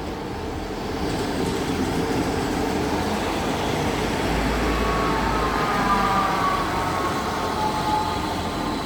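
Class 158 diesel multiple unit running into the platform, a steady rumble of engine and wheels. About halfway through, a faint whine falls in pitch as the train slows.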